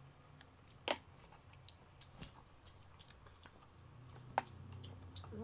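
Faint chewing and mouth sounds of someone eating steak and rice, with a few sharp clicks and smacks scattered through. A low hum comes in near the end.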